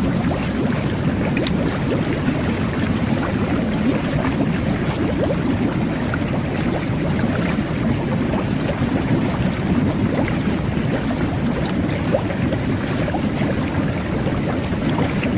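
Jet bath (whirlpool tub) jets churning the bathwater: a steady bubbling rush with small bubble pops scattered through it.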